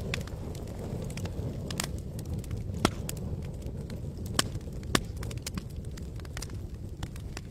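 Wood campfire crackling: scattered sharp pops and snaps, three louder ones about three, four and a half and five seconds in, over a steady low rumble.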